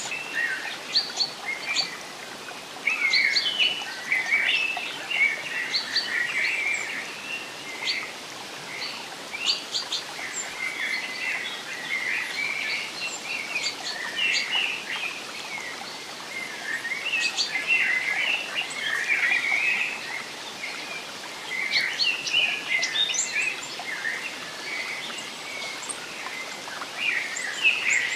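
Several birds chirping and twittering in bursts, over a steady soft hiss of background noise.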